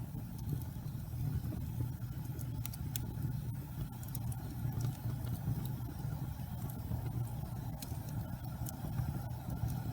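Wood fire burning in a fireplace: a steady low rumble with scattered faint crackles and pops from the burning logs.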